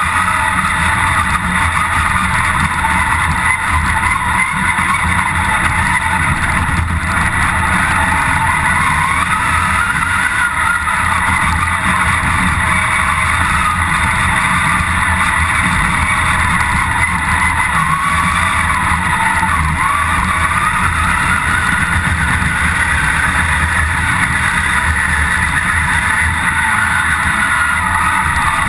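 Engine of a competition off-road car heard from inside its cabin, working under load up a hillclimb course. It runs loud throughout, and the revs rise and fall again and again.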